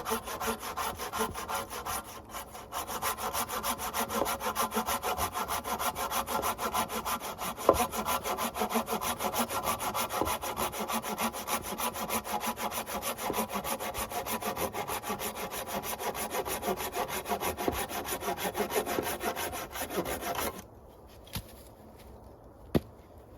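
Hand saw cutting through a wooden branch for firewood in steady, rapid back-and-forth strokes, with a short break about two seconds in. The sawing stops about twenty seconds in, and a couple of faint knocks follow.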